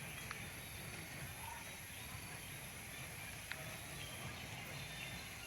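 Faint outdoor ambience: a low murmur of distant voices with a few small clicks, such as footsteps.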